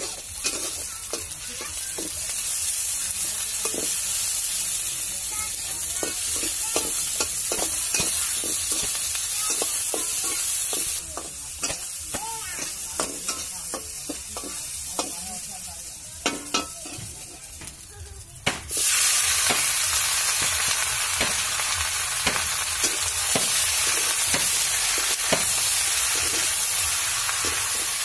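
Food sizzling in hot oil in an iron wok, with a metal spatula scraping and clicking against the pan as it is stirred. About eighteen seconds in the sizzle turns suddenly louder, and the wok then holds chicken skin frying.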